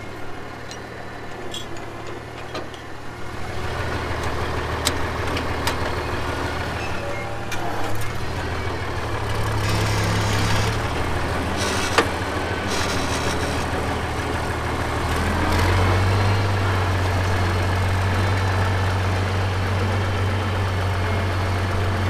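An engine running steadily with a low hum, picking up speed about eight seconds in and again around fifteen seconds in; a sharp click about twelve seconds in.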